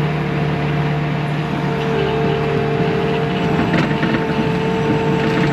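Bobcat T630 skid steer's diesel engine running steadily under work, with a faint clank about four seconds in.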